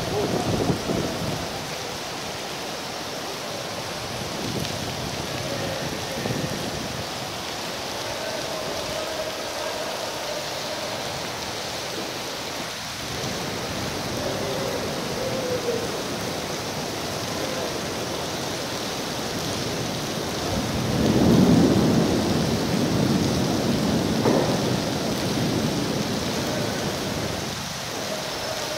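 Rainstorm water pouring and splashing down indoors, a steady rushing hiss throughout. A louder, deeper swell of noise comes about three quarters of the way through.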